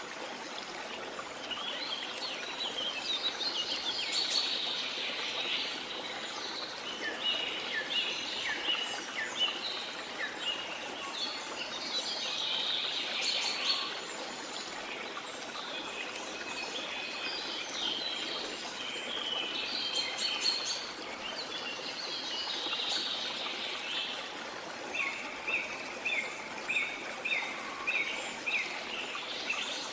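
Rainforest ambience: many birds calling and chirping over a steady rush of water, with a run of quick repeated notes near the end.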